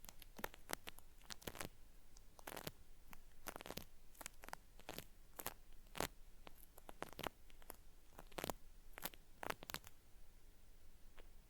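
Cotton swab working in the ear of a binaural microphone, giving irregular crisp crackles and short scrapes in the style of peeling ear cleaning.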